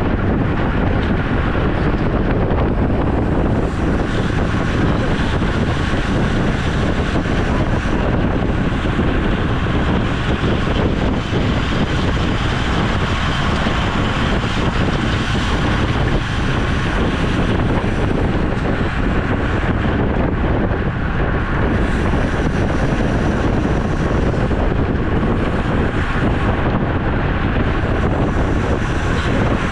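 Steady wind noise buffeting the microphone of a camera riding on a road bike, with the hiss of the moving bicycle underneath.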